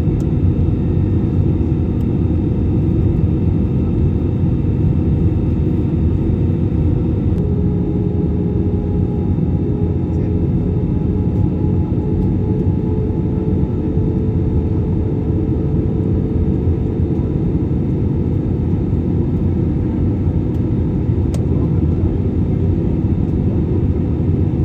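Steady drone of an airliner's engines and rushing air heard inside the passenger cabin in flight, low and even with a few faint steady hums over it.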